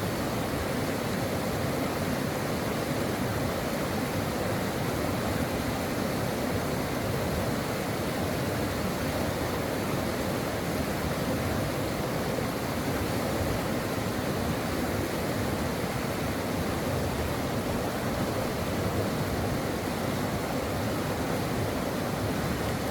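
Stream water flowing and rushing steadily over rocks, an even unbroken noise with no changes.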